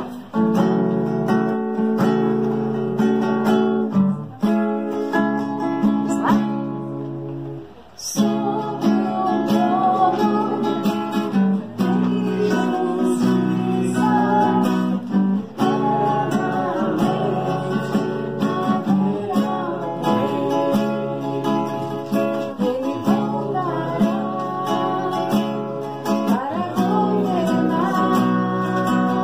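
Acoustic guitar strumming chords, with a voice singing along; the music dips briefly about seven seconds in and then comes back.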